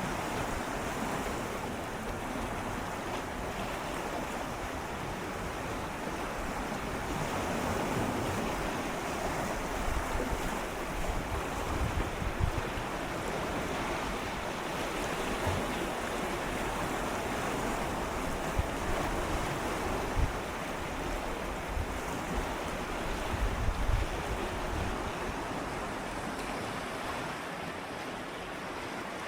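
Gentle sea waves lapping and swirling against shoreline rocks in a steady wash of water, with a few brief louder low surges.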